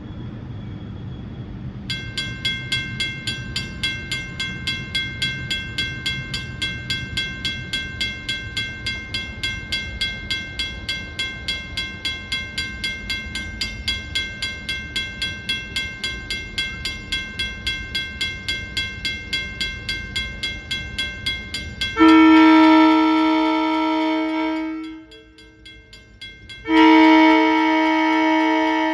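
Railroad crossing's mechanical bell (a first-generation WCH bell) starts ringing about two seconds in, about three strikes a second, over the low rumble of an approaching train. Near the end the train horn sounds two long loud blasts, drowning the bell.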